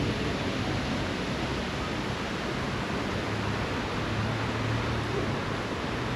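Steady rushing outdoor noise with a low hum that is a little stronger in the middle.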